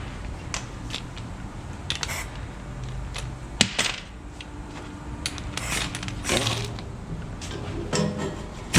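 Hand tools and small metal parts clicking and clinking on a bare engine block. The clicks are scattered, with one sharp click about three and a half seconds in and a couple of brief rasps a little after the middle.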